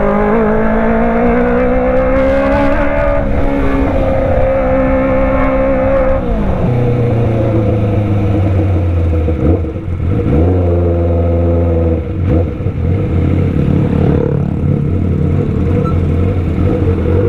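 Kawasaki ZX25R's inline-four engine through a Racefit Slash full-system exhaust, revving high and holding, then dropping about six seconds in to a lower steady note, with brief throttle dips near the middle.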